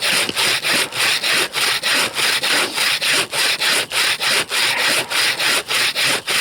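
Bow saw cutting through a frozen fir trunk in steady back-and-forth strokes, about three a second, each stroke a dry rasp.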